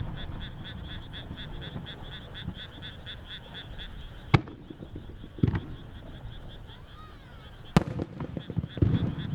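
Aerial firework shells bursting: a sharp crack about four seconds in and another near eight seconds, with a duller thump between them. Under them runs a steady chorus of frogs, a rapid high pulsing chirp several times a second.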